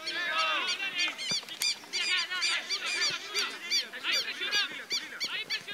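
Harsh calls from several birds, short and rapidly repeated, overlapping one another throughout, with faint voices underneath.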